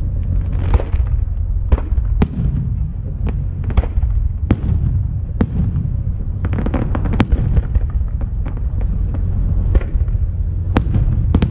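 Aerial firework shells bursting overhead: sharp bangs every second or so, with a quick cluster of reports about two-thirds of the way through, over a steady low rumble.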